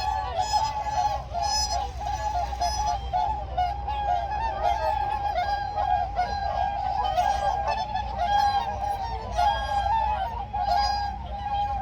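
A flock of whooper swans calling continuously, many overlapping honking calls at once.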